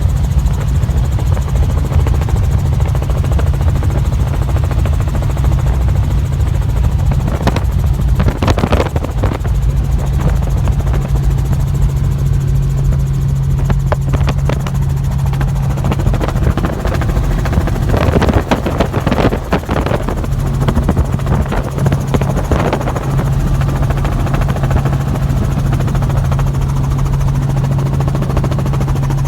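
Helicopter running with a steady, loud low drone and a constant hum. There are a few brief louder noises about a third of the way in and again past the middle.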